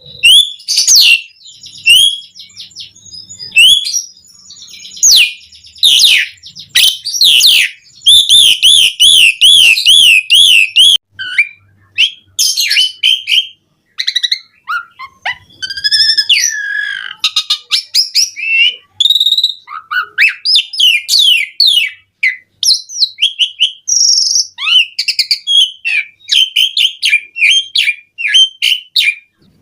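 Asian pied starling singing a long, varied song of whistles, chirps, sweeping notes and dry rattles, full of mimicked phrases. About eight seconds in it gives a fast wavering trill for a few seconds.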